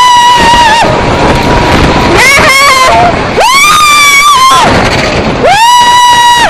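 Roller coaster riders screaming: a run of long, high screams, each held about a second, over wind rushing on the microphone.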